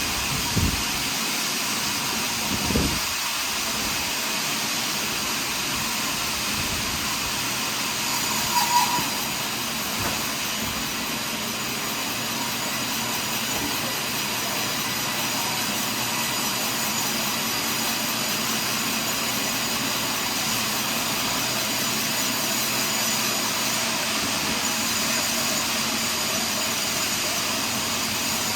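Portable sawmill running steadily, its saw cutting through a large log, with two brief low thumps in the first few seconds.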